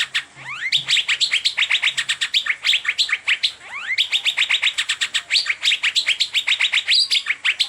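Asian fairy-bluebird (cucak biru) singing: a fast, continuous run of short downward chirps, about ten a second, broken every so often by a rising whistled note.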